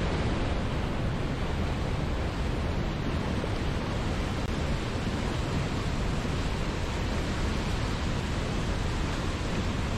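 Waterfall rushing steadily: an even, unbroken noise of falling water, heaviest in the low end.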